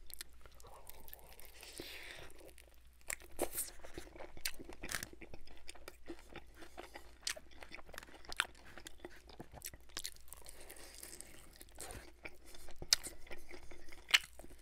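Close-miked chewing and biting of a sauced buffalo chicken wing dipped in ranch: soft wet mouth sounds with many short, sharp clicks scattered irregularly.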